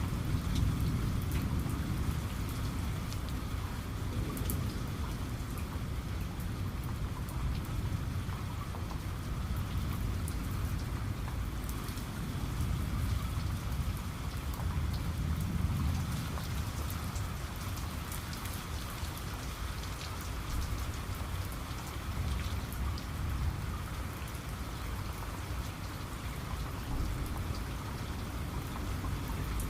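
Heavy rain falling steadily, with many separate drops ticking as they hit. A low rumble of distant thunder swells about a second in and again around the middle.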